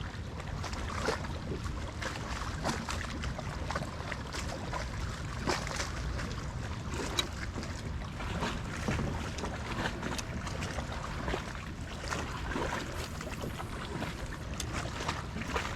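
Small waves lapping and splashing against the hull of a sit-in kayak, with irregular small slaps and drips, over a steady wind rumble on the camera microphone.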